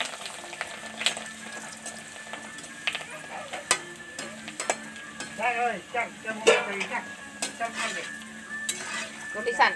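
Small dried snack pieces (fryums) deep-frying in oil in a steel kadhai: a steady sizzle with scattered sharp clicks of a metal slotted ladle against the pan as they are stirred and lifted out.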